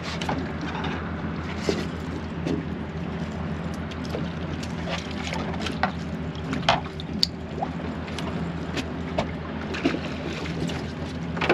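A boat's engine runs steadily at a low hum, with water noise and scattered sharp clicks and knocks, several of them near the middle.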